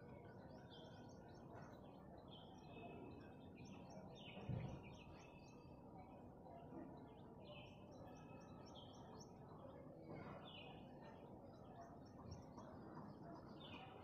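Faint chirping of small birds, many short high notes in quick series coming and going. A single low thump about four and a half seconds in.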